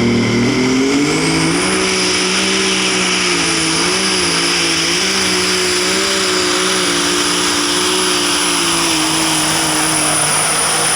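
Turbocharged diesel engine of a Light Super Stock pulling tractor revving up over the first second or two, then held at high revs under full load with its pitch wavering slightly, a steady high turbo whine over it.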